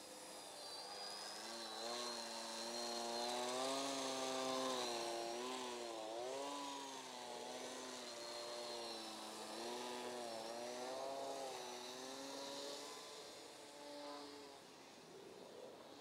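Foam Nutball RC plane's electric motor and propeller buzzing as it flies around, its pitch wavering up and down with a thin whine above it. It grows louder, dips, swells again and fades near the end.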